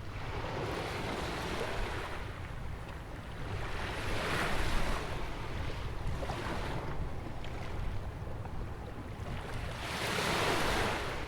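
Ocean waves breaking and washing in, surging and ebbing in three swells, the strongest near the end, over a steady low rumble of wind on the microphone.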